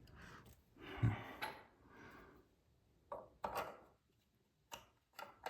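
Faint handling noises of faucet parts being fitted by hand: soft rubbing, then a few small clicks and knocks in the second half.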